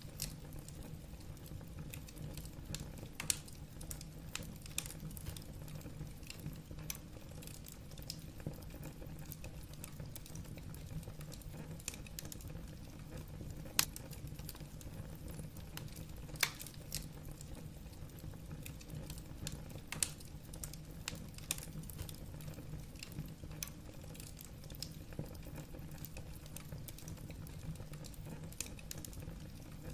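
Wood fire burning in a fireplace: logs crackling with irregular sharp pops, a few of them louder, over a steady low rumble of the flames.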